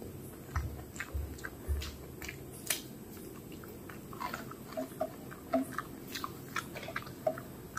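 Close-up chewing of rice, with many short wet mouth smacks and clicks, while fingers mix rice on a plate. A few soft low thumps come in the first two seconds.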